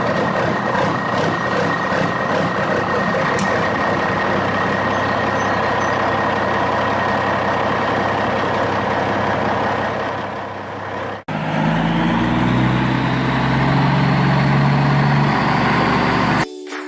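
Heavy vehicle engine running steadily, in two parts with a sudden break about eleven seconds in; the second part carries stepped low tones and a faint rising whine.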